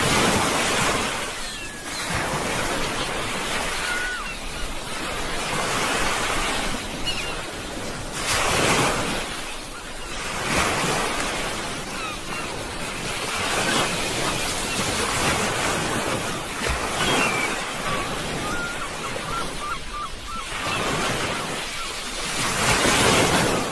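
Sea waves breaking on a shore, a full rushing wash that swells and eases again every two to three seconds.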